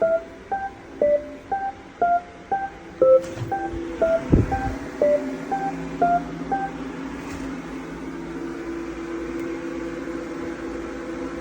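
Drum-type washing machine's electronic beeps: a tune of short single tones at changing pitches, about two a second, with a low thud about four seconds in and a steady low hum running on after the beeps stop.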